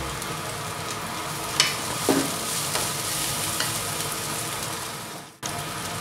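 Sliced red onions, garlic and salam leaves sizzling in hot oil in a nonstick frying pan, with a wooden spatula stirring and a few short taps and scrapes against the pan. The sound cuts out for a moment near the end.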